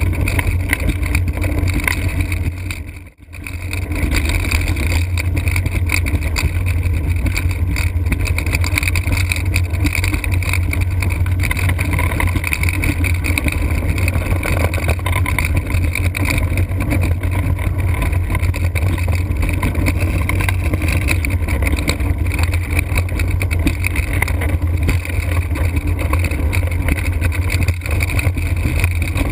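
Steady rush of wind on the microphone of a Blokart land yacht sailing fast, with a strong low rumble underneath. The sound dips out briefly about three seconds in.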